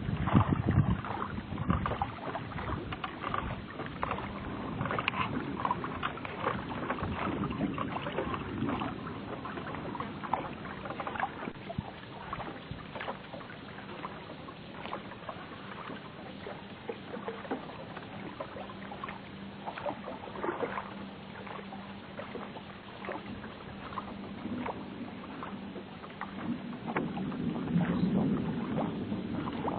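A small sampan moving on a river: water splashing and lapping against the hull, with frequent small irregular knocks and clicks. A faint steady low hum runs underneath and fades out near the end.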